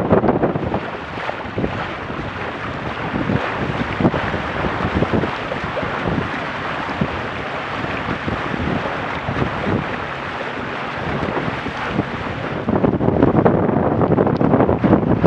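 Wind on the microphone and water rushing past the hull of a Weta trimaran under sail, a steady hiss that turns to heavier gusty buffeting near the end.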